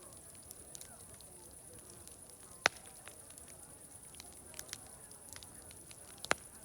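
Wood fire crackling with scattered small snaps and two loud pops, about a third of the way in and near the end, over a faint murmur of distant voices.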